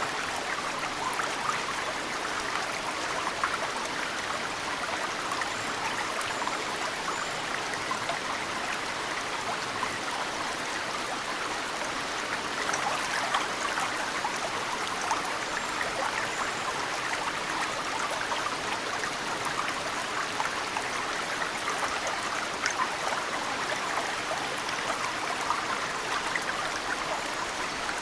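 Mountain stream running steadily, with snowmelt drops dripping and splashing into the water.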